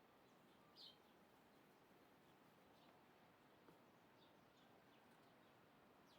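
Faint, scattered bird chirps over near-silent background hiss, with one louder short chirp about a second in.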